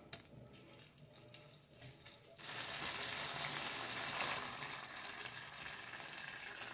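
Tuna and kimchi sizzling in hot chili oil in a nonstick frying pan. A few soft taps come first, then a steady sizzle starts suddenly about two and a half seconds in.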